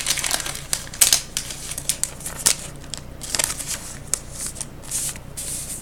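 Trading cards being handled: an irregular run of short rustles and light clicks.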